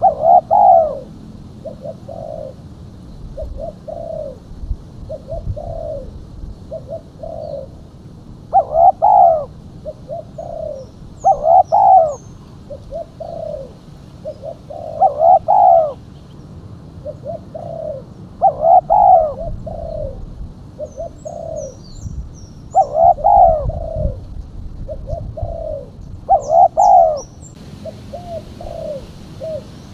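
Female spotted dove cooing, used as a lure call: repeated short coo phrases, a louder one every three to four seconds with softer coos in between. Faint high chirps from small birds come a few times.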